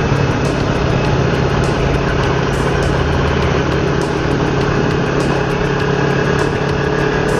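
Motorcycle engine running at a steady speed through an aftermarket R25 exhaust, a constant drone with no change in revs.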